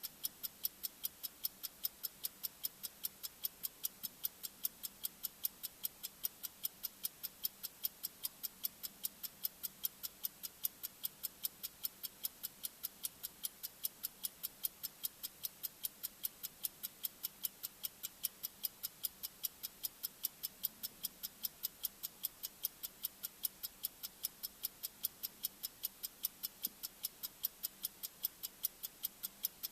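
Bomb-timer ticking sound effect: sharp, high, clock-like ticks repeating evenly a few times a second, counting down.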